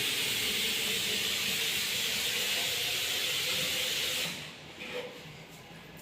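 A steady hiss, like air or spray escaping, that cuts off suddenly about four seconds in.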